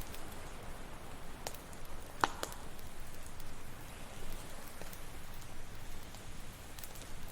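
Campfire crackling, with scattered sharp pops and snaps, the loudest about two seconds in, over a steady wash of ocean waves.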